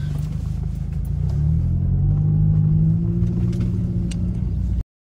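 2012 Mazda 3's four-cylinder engine running, heard from inside the cabin, its note rising as the car speeds up about a second and a half in.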